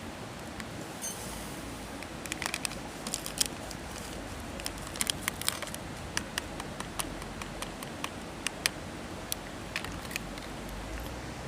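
Wood campfire crackling, with sharp irregular pops and snaps over a steady low hiss.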